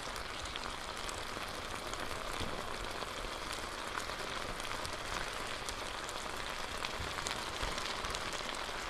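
Chicken and vegetable stir fry sizzling in an electric skillet as its sauce comes up to a boil: a steady, even hiss, with a plastic spoon stirring through the food.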